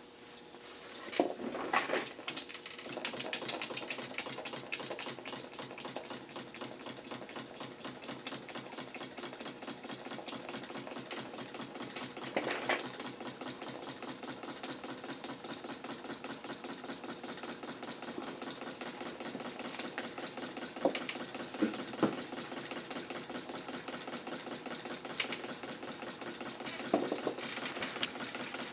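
Small homemade model steam engine running on live steam from a horizontal boiler, a fast, steady mechanical beat. It picks up about a second in, with a few sharper, louder moments along the way.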